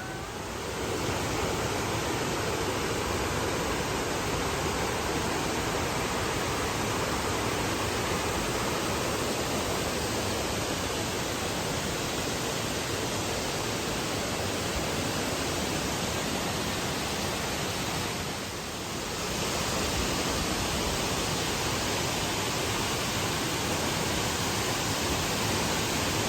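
Waterfall pouring down a high cliff face, a steady rush of falling water that dips briefly about three-quarters of the way through, then resumes.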